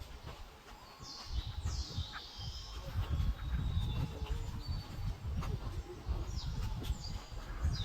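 Small bird calls: a few high chirps sweeping downward in pitch, a cluster about a second in and another near the end, over a low rumble.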